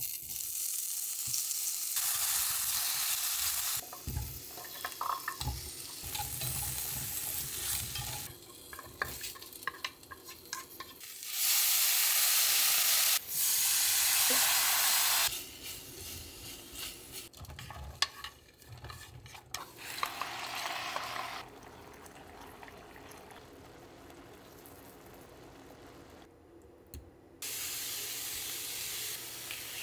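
Vegetables sizzling and being stirred in a hot oiled cast iron pan. The sizzle comes in several separate stretches with quieter gaps of small knocks and scrapes, and is loudest partway through. Near the end, slabs of tofu start to sizzle as they are laid in the pan.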